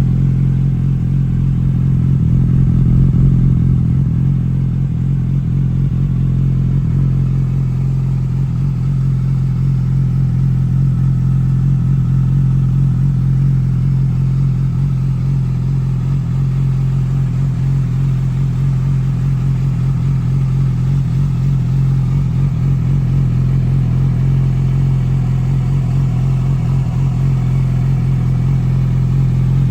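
2007 Yamaha YZF-R6's 599 cc inline-four running at a steady idle through a GYTR exhaust system with catalytic converter, with an even, unchanging exhaust note and no revs.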